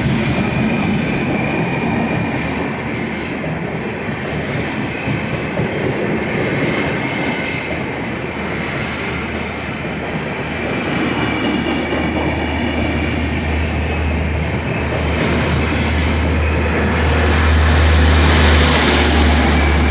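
WAP-7-hauled express passenger train running on the track: a steady rumble and rattle of wheels and coaches that grows louder near the end.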